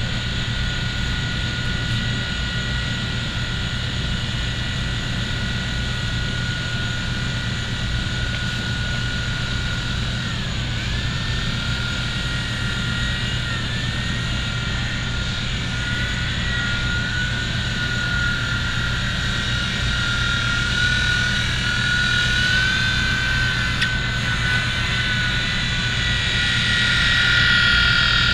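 V911 micro RC helicopter in flight: the high-pitched whine of its small electric motors and rotor, wavering in pitch as the throttle changes and getting louder toward the end.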